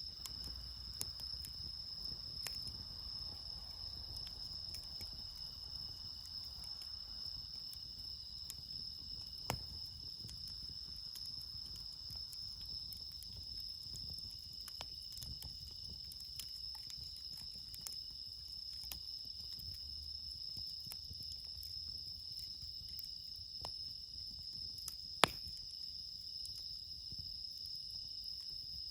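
A steady chorus of crickets chirring, with bell crickets (suzumushi) among them, under scattered sharp pops and crackles from a wood campfire. The louder pops come about nine seconds in and again near the end.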